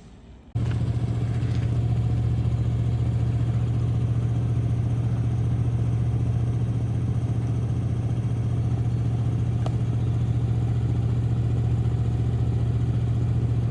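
An engine running steadily at an even speed. It cuts in abruptly about half a second in.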